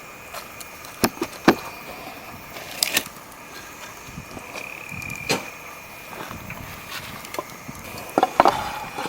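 Scattered sharp clicks and knocks, several close together about eight seconds in, over a steady high insect chirring.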